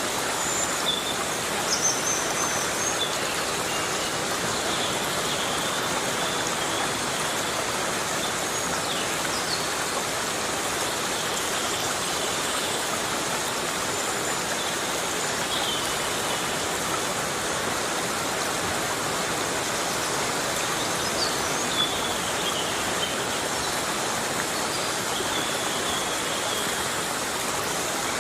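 Heavy rain falling steadily on rainforest foliage, an even hiss that holds at one level. A few faint high-pitched calls sound here and there over the rain.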